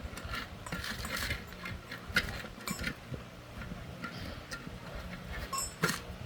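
Irregular small metallic clicks and taps of hand tools working on machine parts.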